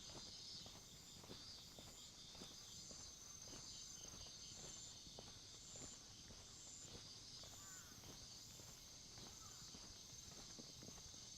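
Quiet footsteps walking at an even pace, about two steps a second, under steady high-pitched insect chirping that pulses about twice a second.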